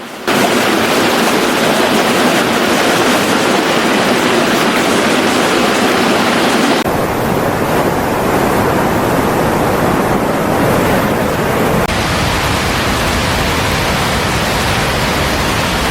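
Steady rushing noise of fast-flowing floodwater. Its character changes abruptly about seven seconds in, with less hiss and more low rumble, and again about twelve seconds in.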